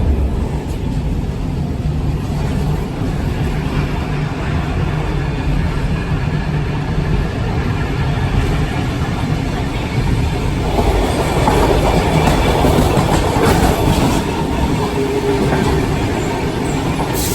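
A train running along the track: a steady low rumble of wheels on rail. About ten seconds in it turns rougher and stronger, with a few clicks.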